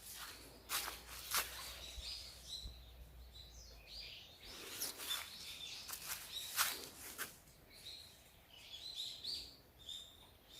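Small birds chirping in short high notes, in two spells, about two seconds in and again near the end. Several sharp clicks or crunches sound between them.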